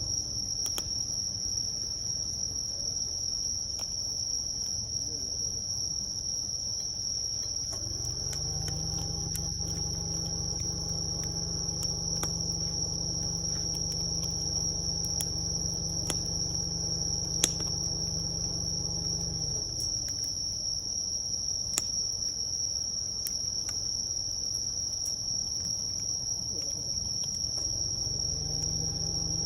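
Wood fire crackling with scattered sharp pops, the loudest about 17 and 22 seconds in, over a steady high chirring of crickets. A low hum with several tones swells in about 8 seconds in and fades out about 19 seconds in.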